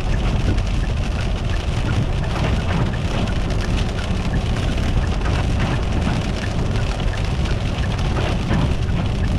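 Car driving on a wet, icy road: a steady low rumble with a continuous hiss of tyres on wet pavement.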